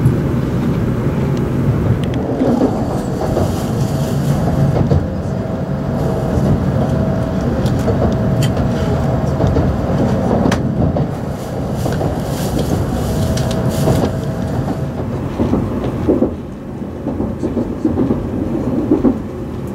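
Tokaido Shinkansen train heard from inside the passenger car as it pulls out and gets under way: a steady low rumble of running, with a faint steady whine that comes and goes and occasional clicks.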